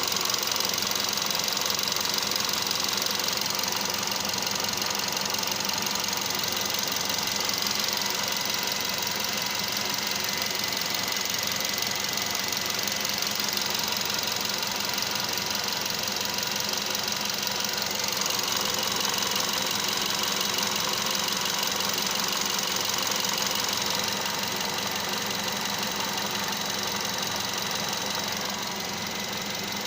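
Nissan Qashqai 1.6 engine idling steadily with a fast, even clatter. The engine is shaking at idle, for a reason the owner can't find.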